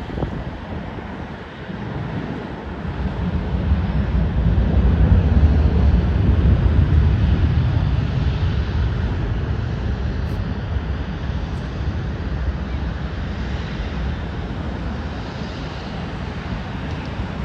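Jet airliner passing by, its engine rumble swelling to a peak about a third of the way in and then slowly fading.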